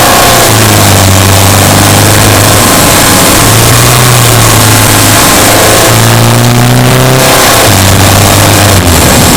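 Subaru Impreza Sport's flat-four engine pulling the car along a forest road, its drone rising and falling in pitch with the throttle several times.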